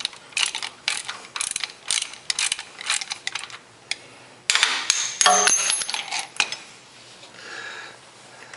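A ratchet wrench clicking through a run of quick, even strokes as a puller nut is tightened to draw a tapped hydraulic line out of a Ford 2000 tractor. About halfway through comes a louder stretch of metal grinding and creaking with a brief squeal as the line is put under strain.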